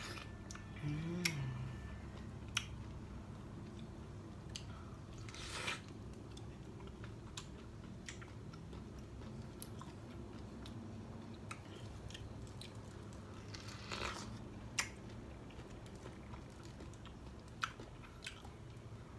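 A person biting into and chewing raw young pineapple flesh: scattered crunches and wet mouth clicks, with a few louder crunchy bites. There is a brief hum from the eater about a second in.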